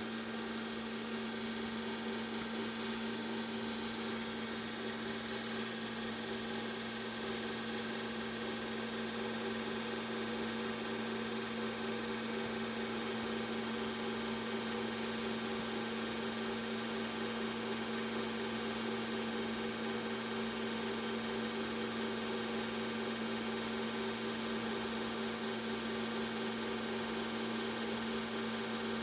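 Steady machine hum at one constant low pitch over even hiss, unchanging throughout, with no engine revving.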